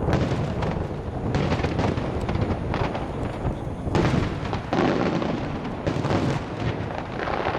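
A starmine fireworks barrage: rapid, overlapping booms of aerial shells bursting, with crackling between them and a few louder bursts.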